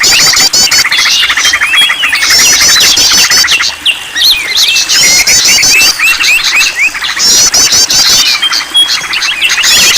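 Bird-lure recording of many songbirds chirping and trilling over one another in a dense chorus, with a fast high trill that comes back every second or two. It is a mix used to set caged birds singing.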